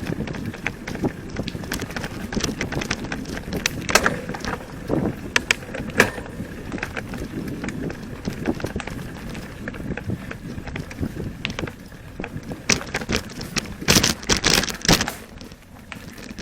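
Irregular knocks, clatter and crackling of movement over a rough forest trail strewn with fallen branches, with a louder cluster of knocks near the end.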